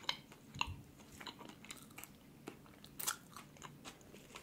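Close-up chewing of food: a string of short, crisp crunches and wet mouth clicks, the loudest ones near the start and about three seconds in.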